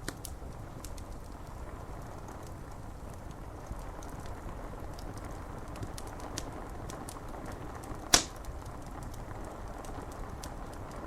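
Wood fire crackling with scattered sharp snaps and one loud pop about eight seconds in, over a steady hiss of rain on window glass.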